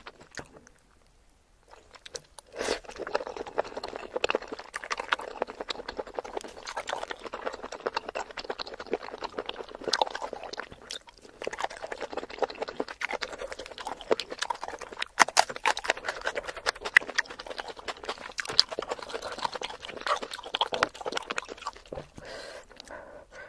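Close-miked chewing of sauce-coated seafood: dense, irregular wet mouth clicks and smacks. It starts about two seconds in and pauses briefly near the middle.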